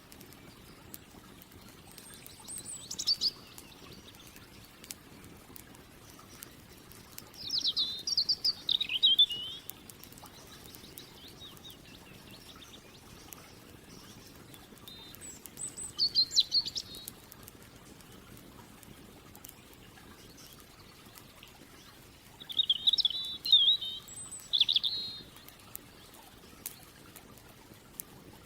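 A songbird singing four short phrases, one every six to seven seconds. Each is a thin high note followed by a fast, jumbled twittering trill. Faint scattered crackles from a campfire run underneath.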